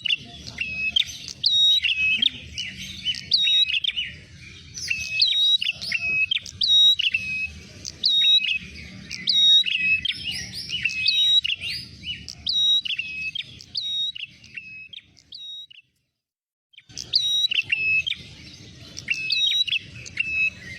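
Prenjak merah bird calls, played as a lure: a rapid string of sharp, repeated chirps, with a low rumble underneath. The calls break off into a second of silence about three quarters of the way through, then resume.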